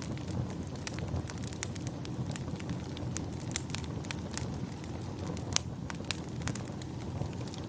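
Wood fire in a fireplace crackling, with irregular sharp pops, two of them louder about three and a half and five and a half seconds in, over a low steady rumble.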